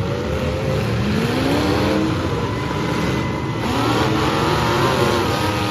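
Several demolition derby car engines revving hard with open headers, their pitches rising and falling against each other.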